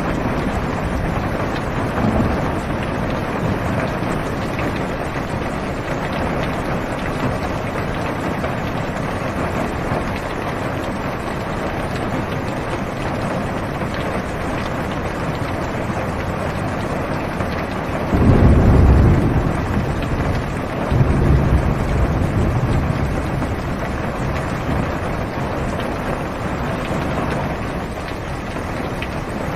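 Steady rain drumming on a car's roof and windows, heard from inside the car. Thunder rumbles loudly about two-thirds of the way through, twice in quick succession, then fades back under the rain.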